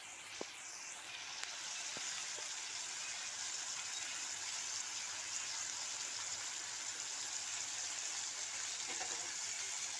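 Vegetable strips frying in oil in a wok: a steady sizzling hiss that builds over the first second and then holds, with a few faint clicks in the first couple of seconds.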